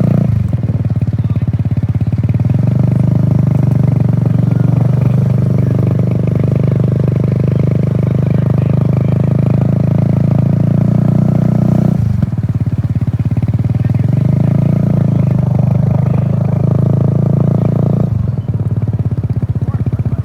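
Mini bike engine under way, pulling steadily. The throttle is eased off three times, near the start, about twelve seconds in and about eighteen seconds in, each time dropping to a lower, pulsing putter before building back up.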